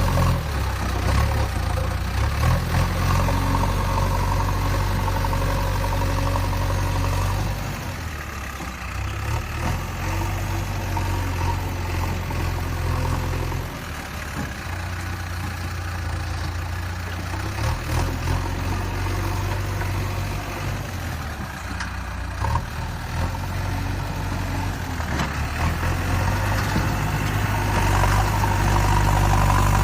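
An engine idling steadily with a low, even hum. It eases a little in the middle and grows louder again near the end.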